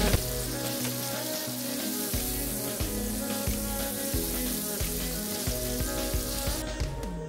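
Diced onion, tomato, chili pepper and ginger sizzling in hot oil in a nonstick frying pan as they are stirred with a wooden spatula. Background music with a steady beat plays underneath.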